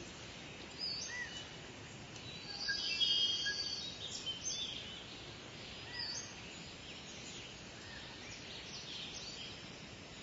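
Birds chirping and calling now and then over a steady outdoor hiss, with a brief flurry of calls about three seconds in.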